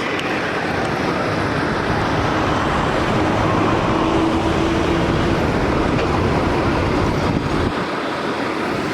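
Steady motor vehicle noise, with a faint hum rising out of it for a couple of seconds in the middle.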